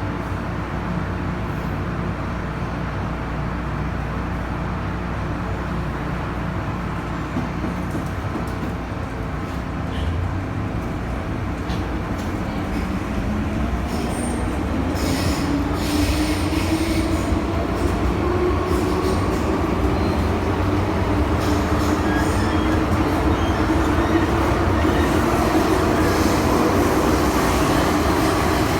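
MTR M-Train electric multiple unit on the Tseung Kwan O line, heard from on board as it runs and picks up speed. A traction-motor whine climbs steadily in pitch from about halfway through, over the rumble of wheels on rail, and the sound grows a little louder.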